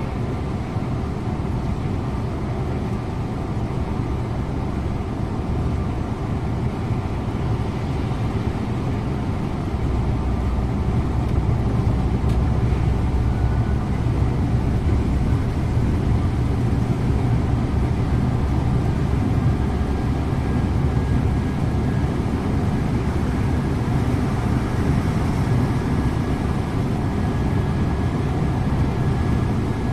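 Scania InterLink bus driving along the road: steady engine and road noise, the low rumble growing heavier about a third of the way in.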